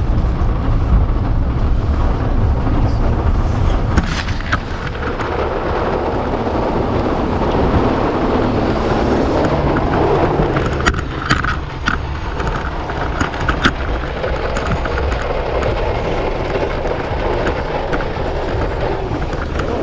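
Steady low rumble of a vehicle, with a hiss that swells for several seconds in the middle and a few sharp clicks and knocks.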